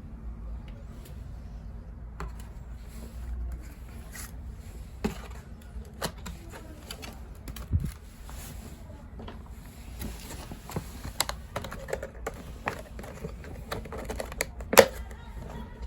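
Irregular light clicks and taps of small objects being handled, over a low steady hum, with one sharper knock near the end.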